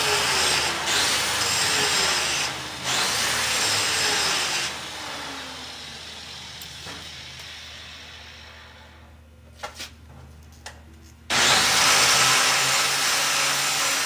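An angle grinder runs loud and steady, then is switched off and coasts down over several seconds. A few faint clicks follow, and about eleven seconds in the grinder starts again suddenly.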